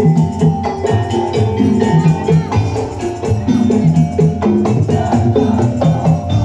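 Madurese daul ensemble playing: drums and pitched percussion in a fast, steady, repeating pattern.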